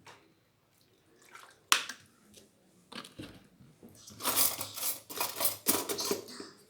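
A couple of sharp clinks against a dish, then about two seconds of splashy liquid pouring: vinegar being poured over a salad.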